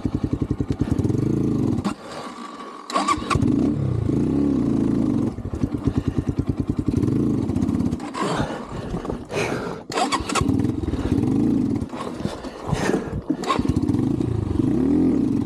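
Single-cylinder four-stroke engine of an Xpro Templar X 250cc dirt bike, pulsing evenly at low revs and then revving in repeated uneven bursts, with a short drop about two seconds in. The owner says its carburettor needed the idle screw opened because it kept bogging and stalling.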